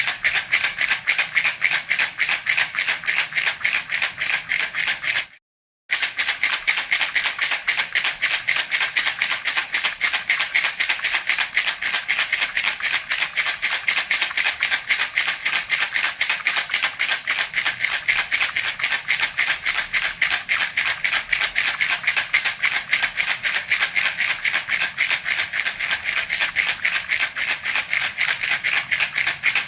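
Baby rattle (jhunjhuna) shaken steadily in a fast, even rhythm, its beads rattling with a bright, high sound. A short silent break comes about five seconds in.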